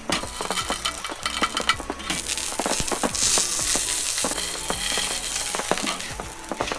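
Food frying in a pan: a steady sizzle with the clicks and scrapes of a utensil stirring it. The sizzle grows louder about three seconds in.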